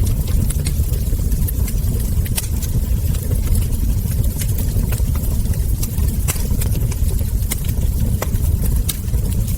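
Wood fire crackling, with irregular sharp pops and snaps from the burning logs over a steady low rumble.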